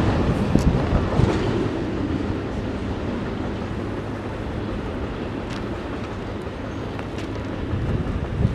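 Rumble of a passing train slowly fading as it moves away, with a few faint clicks from the rails.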